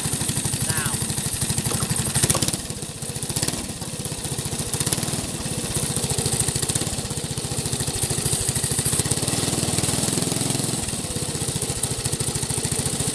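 Small engine of a supermileage car running steadily, driving the wheel through a servo-actuated plate clutch. A sharp knock comes a little over two seconds in, after which the engine runs quieter for a moment before settling back to its steady note.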